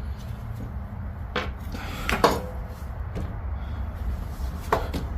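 A few short metallic clinks and knocks from parts and tools being handled while working on a riding mower, the loudest about two seconds in, over a steady low hum.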